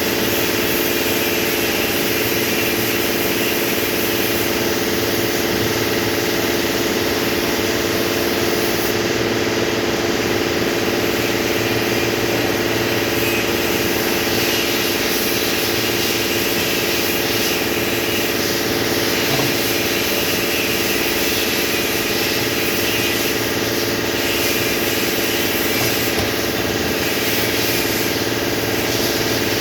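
An engine running steadily at idle, with a constant hum that does not change.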